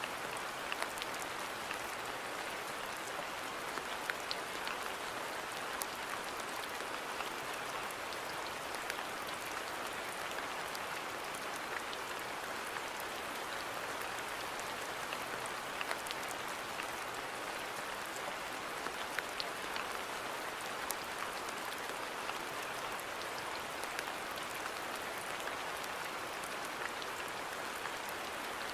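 Steady rain falling on a garden, an even hiss with many scattered individual drop ticks and small splats.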